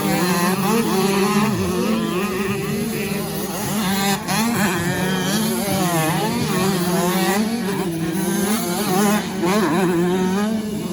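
85 cc two-stroke motocross bikes racing, their engines revving up and down without a break.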